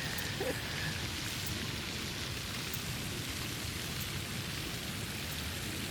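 Steady, even hiss of outdoor background noise with no distinct source, crossed by a few faint light ticks a little over a second apart.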